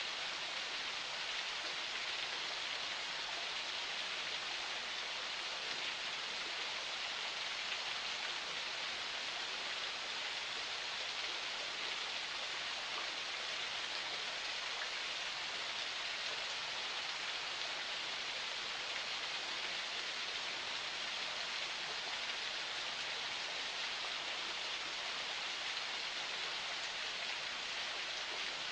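Water of a forest spring flowing in a steady, unchanging rush.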